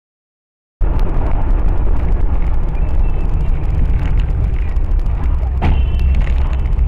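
Vehicle engine and road noise picked up by a dashcam, cutting in suddenly under a second in: a loud, steady low rumble with small rattles and one sharp knock about six seconds in.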